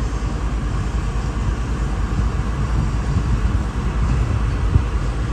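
Steady low vehicle rumble, with one short knock near the end.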